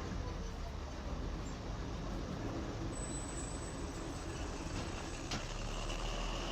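A steady, even rumble with a low hum underneath, like a large vehicle running, from a sound-effects recording.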